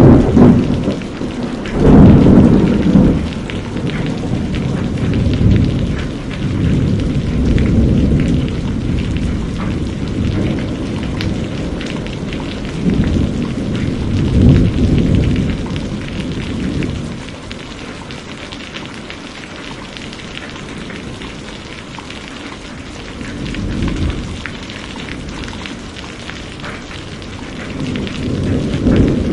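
Thunderstorm: steady rain with rolling thunder rumbling again and again. The thunder is loudest at the very start and about two seconds in, swells again about halfway through, eases off for a stretch, then builds again near the end.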